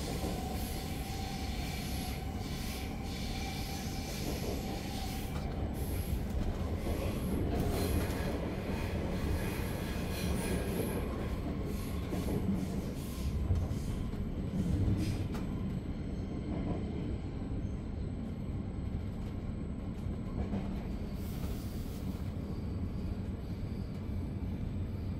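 Interior running noise of a Zürich S-Bahn DPZ double-deck train hauled by an Re 450: a steady low rumble of wheels on the track, with a faint high whine in the first few seconds.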